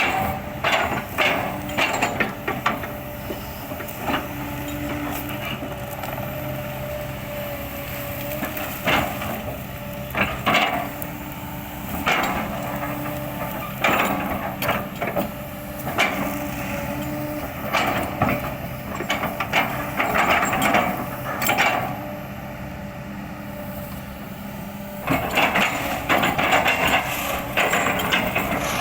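Kobelco excavator's diesel engine running steadily while its bucket chops and splinters oil palm trunks, with repeated sharp cracks and knocks of wood breaking.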